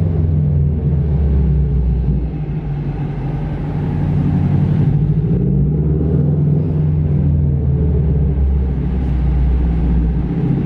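Subaru WRX's flat-four engine running with a deep, steady note as the car drives, dipping slightly about two seconds in.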